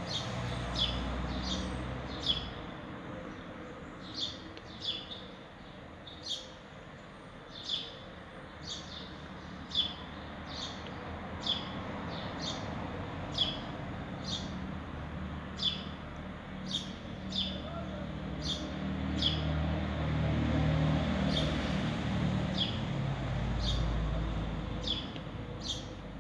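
A bird chirping over and over, short sharp falling chirps about once a second, over a low background rumble that swells for a few seconds near the end.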